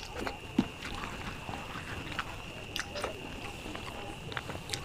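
Close-miked chewing of a mouthful of rice and dal eaten by hand, with wet mouth clicks and smacks and one sharp click about half a second in. A steady high-pitched tone sits faintly underneath.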